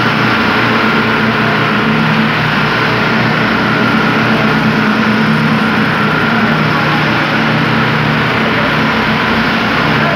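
Heavy engine of construction machinery running steadily at constant speed, with a steady high whine over it.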